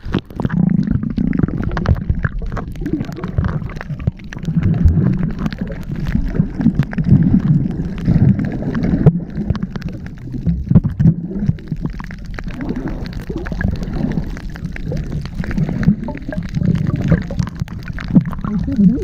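Muffled gurgling and rushing of water heard from a submerged camera underwater.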